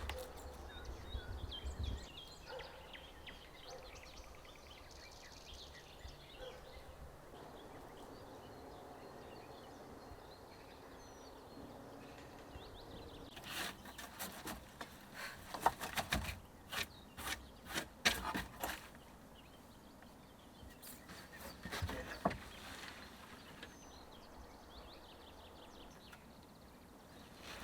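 Quiet forest ambience with faint, scattered bird chirps. About halfway through, a run of sharp clicks and knocks starts and lasts several seconds; a shorter cluster follows a few seconds later, and another near the end.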